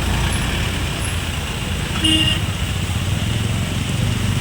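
Road traffic: vehicle engines running steadily, with a brief horn toot about two seconds in.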